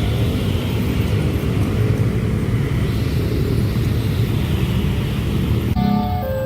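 Steady heavy rumble of a train running past at speed. It cuts off abruptly near the end, and a few steady tones stepping between pitches like a short tune follow.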